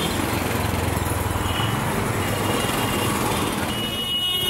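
Royal Enfield Bullet single-cylinder motorcycle engine running steadily with a rapid, even thump.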